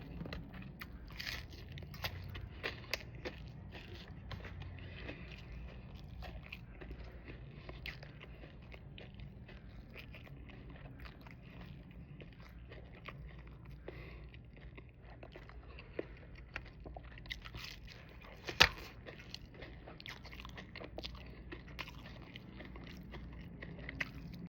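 A person eating: chewing and biting with scattered small clicks and crunches, and a few sharper ticks, most clearly one about 18 seconds in.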